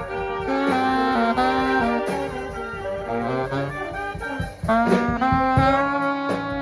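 Live swing band playing an instrumental passage: saxophone and brass horns holding and moving between notes over a steady drum beat.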